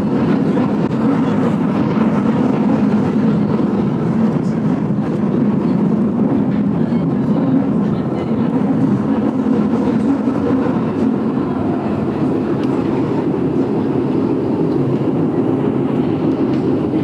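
Vintage passenger train in motion, heard from inside the carriage: a steady running noise of the wheels on the rails with faint light ticks.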